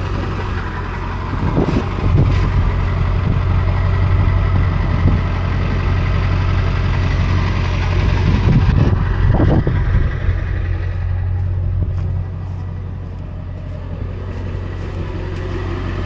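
Truck engine idling steadily, with a few short clunks and rattles about two seconds in and again around nine seconds.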